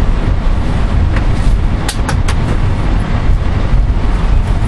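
A passenger rail coach running along the track, heard from inside: a steady low rumble, with three sharp clicks close together about two seconds in.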